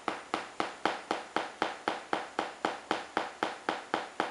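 Small hammer tapping steadily on a Tong Ren doll, about four even taps a second.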